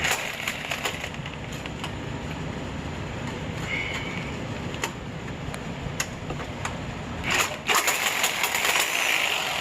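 Scattered metal clicks and taps under the car. Near the end comes about two seconds of a reciprocating saw cutting through exhaust pipe, loud and harsh with a fast chatter.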